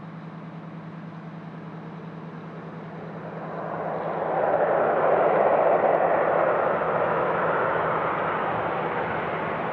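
Business jet's turbofan engines passing on the runway. The jet noise swells over about two seconds, peaks, then eases to a steady level, with a steady low hum underneath.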